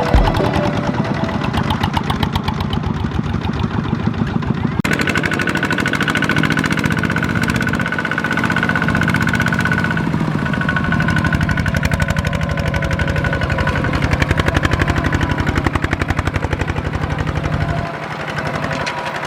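Small tractor's engine running steadily with a fast, even knocking beat, its sound changing about five seconds in.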